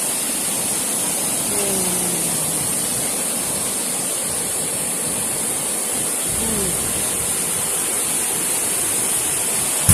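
Waterfall with a steady rush of falling water, a constant hiss across the whole range.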